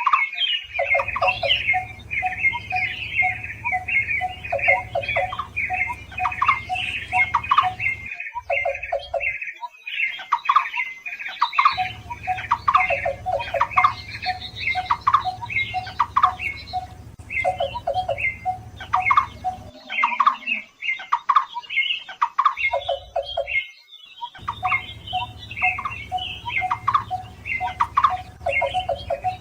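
Barbet calls played as a lure: fast runs of repeated high notes layered over a lower repeated note, with a steady low hum underneath. The calling breaks off abruptly a few times for about a second.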